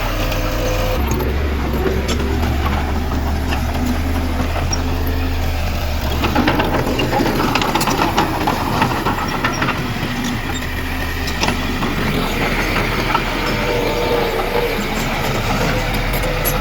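Diesel engine of heavy earthmoving machinery running under load, with a steady low hum, and a spell of clanking and rattling about six to nine seconds in.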